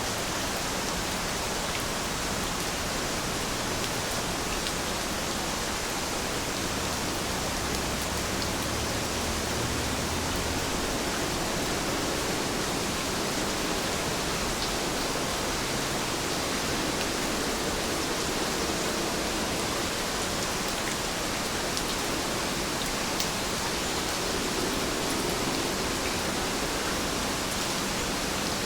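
Steady rain, an even hiss of falling water with a few faint individual drop ticks.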